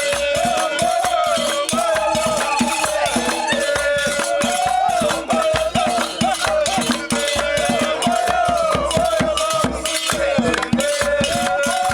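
Traditional Berber music: voices singing a repeating chanted melody over fast, steady percussion with a bright rattling sound.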